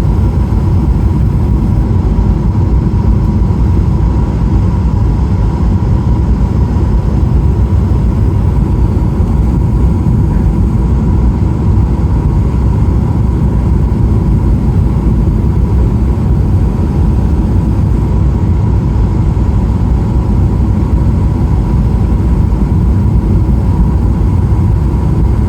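Steady, loud cabin noise inside a Boeing 777-300ER: a low rumble of its GE90 engines and airflow with a faint steady whine on top, unchanging throughout.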